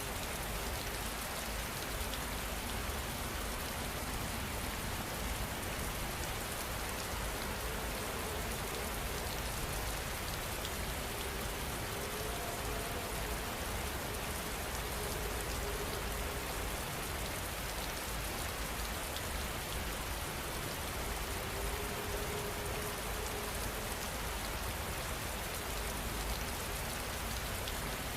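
Steady rain falling on a surface: an even, continuous hiss of dense raindrops that holds the same level throughout.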